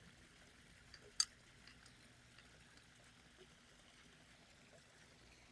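Near silence with a faint steady hiss, broken by one sharp click about a second in and a few fainter ticks.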